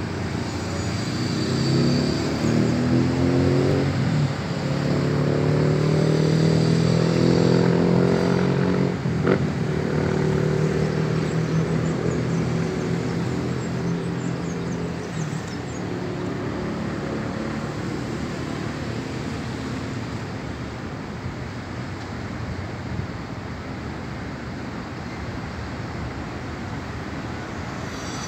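A road vehicle's engine running close by, its pitch gliding and then falling as it passes, over a steady traffic rumble that fades down in the second half.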